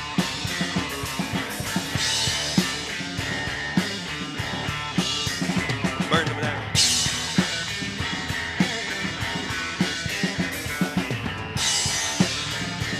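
A rock band playing an instrumental passage: a drum kit with bass drum and snare keeping a steady beat over guitar, with crashing cymbals coming in and out.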